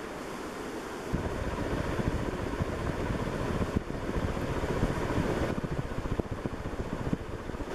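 Rushing air from a 1980s Nadair Spinner 120 cm ceiling fan running on high speed, with gusts of its downdraft buffeting the microphone from about a second in.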